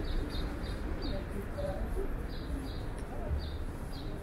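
A small bird chirping: short, high chirps repeated in little runs of a few per second, over a low, steady street background noise.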